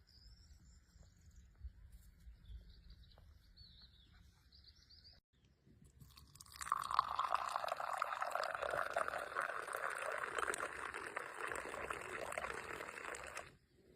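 Faint bird chirps for about five seconds, then after a short gap loud running, pouring water for about seven seconds, which cuts off suddenly.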